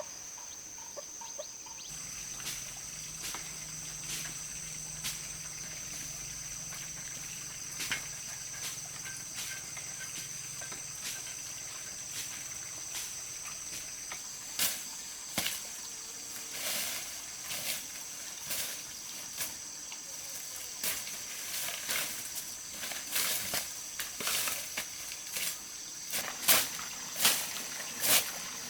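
Steady high-pitched insect chirring, with a series of sharp knocks that come roughly once a second from about halfway on and grow louder near the end.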